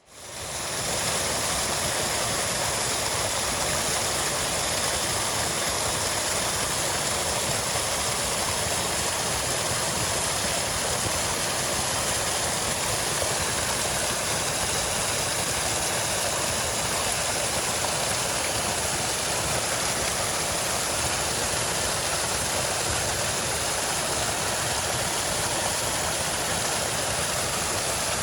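Heavy rain falling steadily, a dense even hiss that fades in over about the first second.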